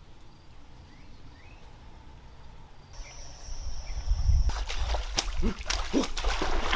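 Faint rainforest ambience with a few short chirps and, from about halfway, a steady high thin tone. Then, from about four and a half seconds, a run of sharp clicks and knocks mixed with short low sounds, growing louder.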